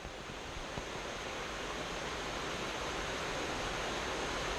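Steady rush of a waterfall, an even hiss of falling water with no distinct events, swelling slightly in the first second or two.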